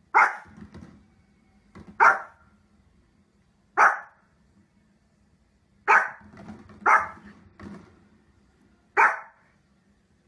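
A dog barking: six single loud barks, one every one to two seconds.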